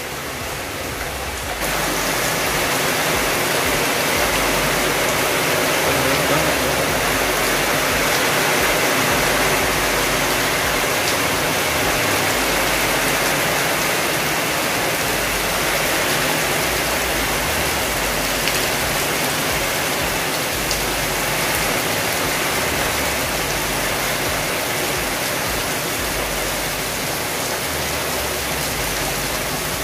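Heavy rain falling steadily on the yard and roofs, a loud, even hiss that sets in abruptly about two seconds in.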